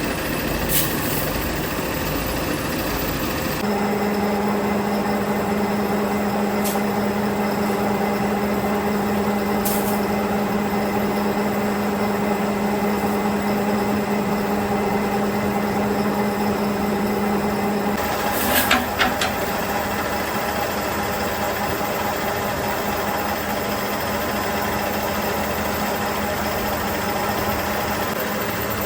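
Factory machinery running steadily with a continuous mechanical hum. A steady low tone joins in a few seconds in and cuts off about halfway through, and there are a few short clanks.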